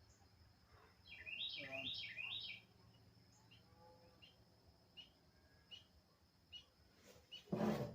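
A songbird singing a quick run of rising-and-falling chirps, then single faint chirps about once a second. Near the end, a short dull knock.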